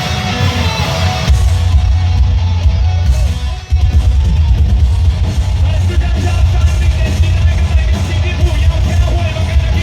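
Live heavy metal band playing: distorted guitars and pounding drums kick in fully about a second in, with a short break just before the four-second mark before the full band comes back in.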